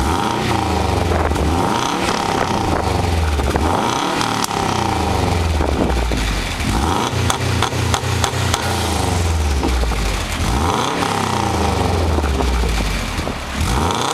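2011 Subaru WRX's turbocharged 2.5-litre flat-four heard through an STi Magnaflow catback exhaust, revving up and dropping back several times with a deep low exhaust note.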